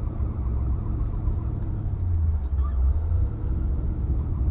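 1964 Chevrolet Impala SS's 327 V8 running through Porter glass-pack-style mufflers as the car drives along, a steady low exhaust note that grows a little louder about two seconds in.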